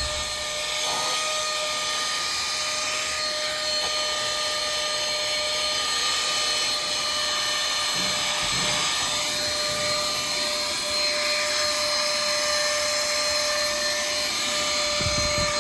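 Vacuum cleaner running steadily, a high motor whine over a rushing hiss of suction, used to clean a car's interior.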